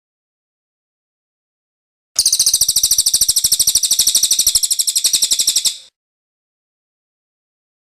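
Cililin bird singing its rolling song: one rapid, high trill of evenly repeated notes, about three and a half seconds long, starting about two seconds in.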